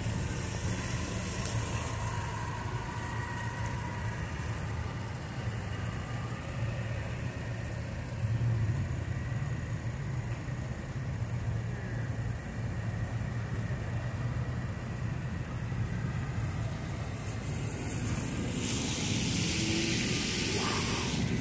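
Ford Mustang GT's V8 engine running with a steady low rumble as the car rolls slowly away across a wet lot. A broad hiss of noise rises near the end.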